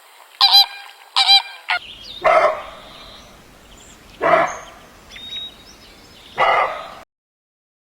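Honking bird calls, five in all: two clear calls about half a second and a second in, then three harsher ones about two seconds apart. The sound cuts off abruptly about seven seconds in.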